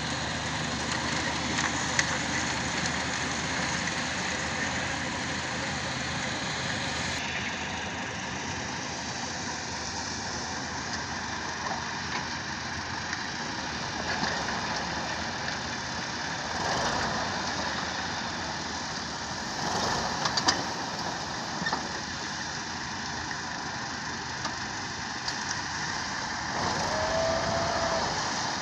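A motor running steadily, with an abrupt change in its sound about seven seconds in and a brief whine near the end.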